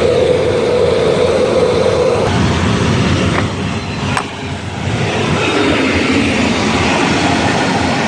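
Steady, loud vehicle noise: a rumble with hiss over it and a steady hum for the first two seconds, broken by two sharp clicks about three and four seconds in.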